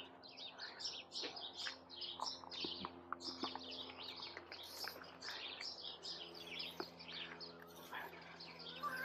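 Small birds chirping and twittering, many quick short chirps throughout, faint, over a steady low hum.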